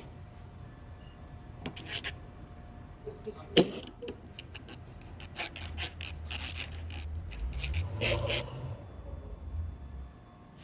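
Hand work on car parts: scraping and clicking as parts and tools are handled, with one sharp knock about three and a half seconds in. A low rumble swells in the second half and peaks about eight seconds in.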